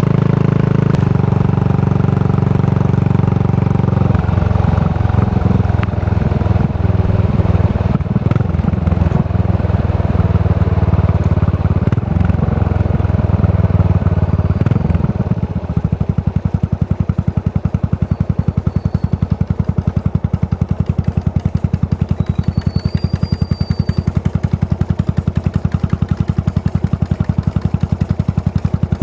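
Yamaha SR400's air-cooled single-cylinder four-stroke engine, breathing through a Goods tapered-cone slip-on muffler. It runs under way with its pitch shifting for the first half, then settles about halfway through into a steady, evenly pulsing idle.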